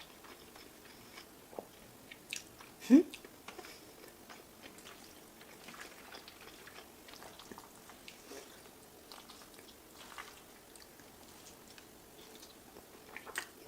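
Close-up chewing and wet mouth sounds of someone eating, with scattered soft smacks and clicks. About three seconds in comes the loudest sound, a brief rising voiced sound from the eater.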